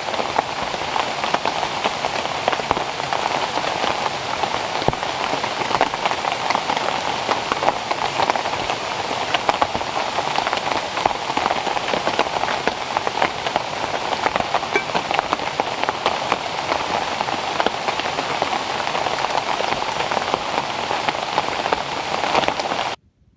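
Steady rain falling, with many individual drop hits throughout. It cuts off suddenly near the end.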